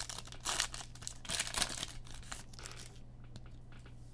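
A football trading card pack's wrapper being torn open and crinkled by hand, in crackling bursts for about three seconds, then a few faint clicks as the cards are handled.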